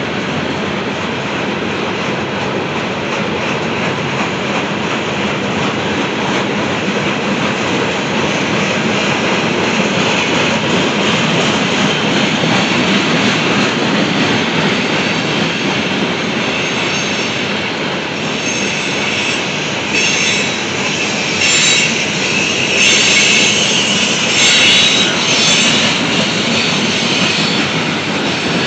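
Loaded Norfolk Southern coal hopper cars rolling past, steel wheels on the rails giving a steady rumble and clatter. From about halfway through, high-pitched wheel squeal rises over it and is loudest a few seconds before the end.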